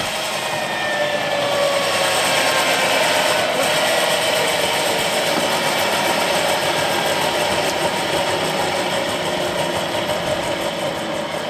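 M701 Motorlet jet turbine running with a steady rushing roar and faint whining tones that sag slightly in pitch in the first couple of seconds. The turbine is failing to ramp up in speed, and it is losing oil.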